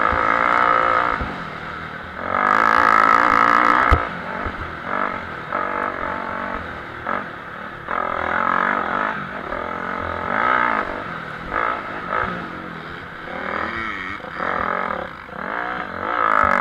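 Off-road motocross motorcycle engines revving up and down through the gears as the bikes ride the track, loudest about three seconds in, with a single sharp knock about four seconds in.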